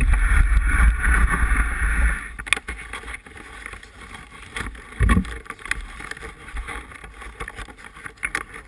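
Wind buffeting a handlebar-mounted camera on a moving mountain bike, with a rumble that drops away sharply about two seconds in as the bike slows, leaving scattered clicks and rattles and one low thump about five seconds in.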